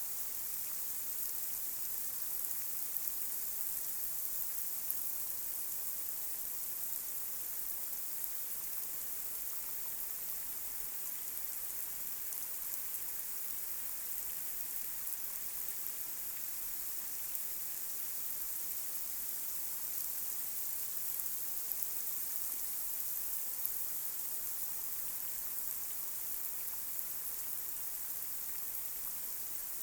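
Light rain falling steadily on a street: an even high hiss with scattered small drop ticks.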